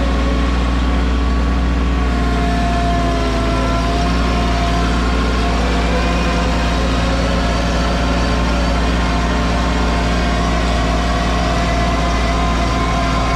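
Mahindra 1626 tractor's diesel engine idling steadily at an even speed.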